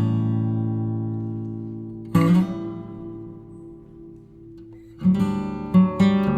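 Background acoustic guitar music: a chord struck and left to ring out, a second one about two seconds in, then a quick run of picked notes near the end.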